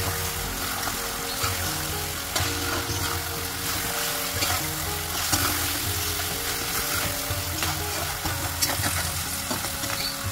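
Egg masala gravy sizzling and frying in a bronze pan while a spoon stirs it, with irregular clicks and scrapes of the spoon against the pan. Background music plays underneath.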